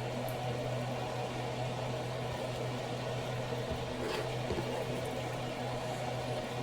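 Steady low hum of a running kitchen appliance, with a faint tap about four seconds in.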